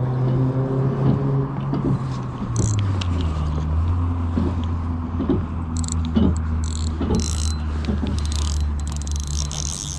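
A motor runs steadily with a low hum that drops in pitch about three seconds in. Scattered short clicks and hissy patches sound over it.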